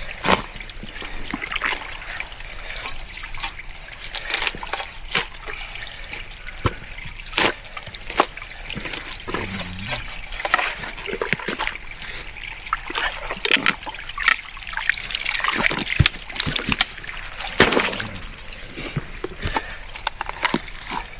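Stream water trickling and splashing, broken by irregular sharp knocks and splashes as a tough piece is worked at and split.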